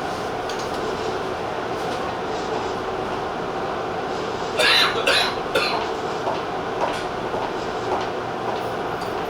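Tobu TJ Liner electric train running along the line, a steady rumble of wheels on rail. A short cluster of sharp clicks and knocks comes about halfway through.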